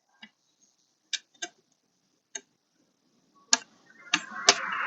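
Scattered light clicks and taps of small hardware being handled, about seven in all with irregular gaps. A steady hiss of noise rises near the end.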